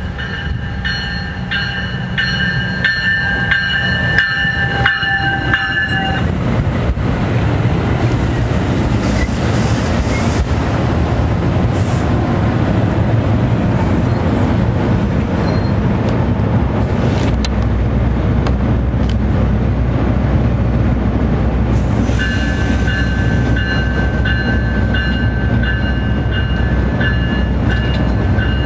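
NJ Transit diesel push-pull commuter train with double-deck coaches sounding its horn in several short blasts as it approaches, then rumbling and clattering loudly past on the rails, with a deeper rumble from about halfway through. A horn sounds again, held steady, near the end.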